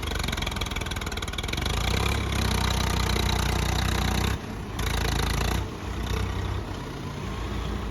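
Diesel tractor engine working hard under heavy pulling load, rising in level about two seconds in, dipping sharply for a moment around four and a half seconds, then easing off near the end.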